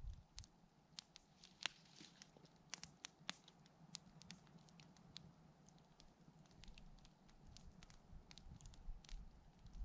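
Campfire crackling faintly: wood burning with irregular small snaps and pops, a few of them sharper, over a low hush.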